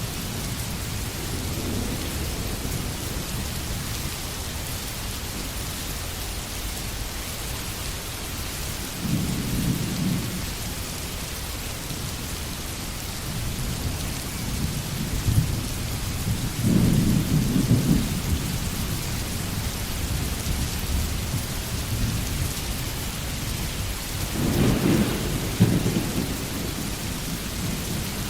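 Steady rain falling, with low rumbles of thunder swelling up three times, near the start of the second third, in the middle and near the end.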